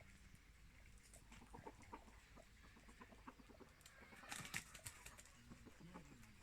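Chickens clucking faintly, with a brief scratchy rustle about four seconds in.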